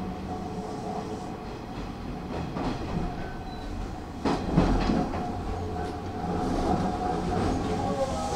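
Hanshin 5500-series electric train running, heard from inside the car: a steady rumble with a whine, and the wheels knocking over rail joints, loudest about four and a half seconds in.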